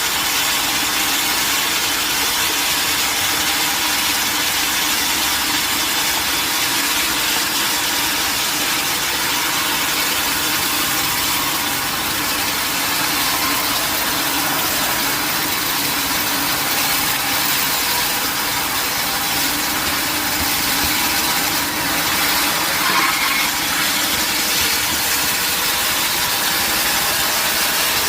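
Sawmill machinery running steadily: a continuous loud mechanical noise with several steady tones, with no clear break or cut in the sound.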